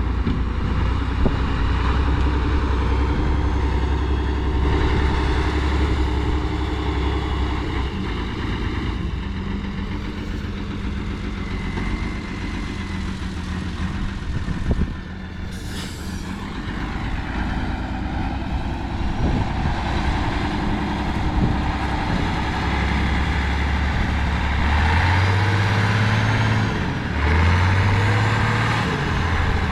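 Heavy off-road truck engine running steadily, then revving up twice near the end. A brief hiss about halfway through.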